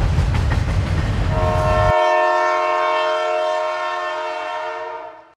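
Train sound effect: a train rumbling and clattering along the rails, the rumble cutting off about two seconds in. Over it, a train horn sounds a chord of several notes for about four seconds and fades out at the end.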